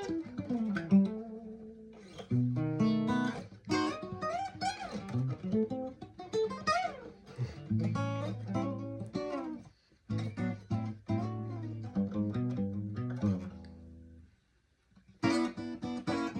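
Acoustic guitar playing a 12-bar blues, with picked single notes, bent notes and a low bass underneath. It stops briefly near the end, then starts again.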